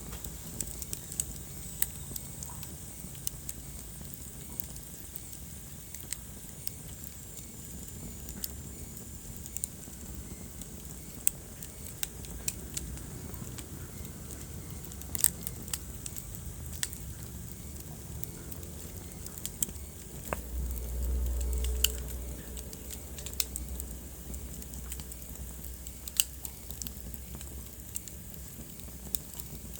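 Wood fire burning in a fireplace, crackling with irregular sharp pops and snaps over a low steady rumble. A louder low rumble swells for about two seconds past the two-thirds mark, and a faint high whistle comes and goes in the first ten seconds.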